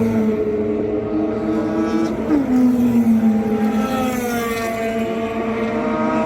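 Mazda RX-8's two-rotor Renesis rotary engine running at full throttle at high revs. Its pitch drops sharply a little over two seconds in, then sags and climbs again near the end.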